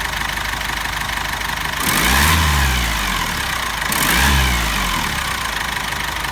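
Cummins ISF 2.8 four-cylinder turbodiesel idling, then blipped twice, about two and four seconds in, each rev rising and falling back to idle.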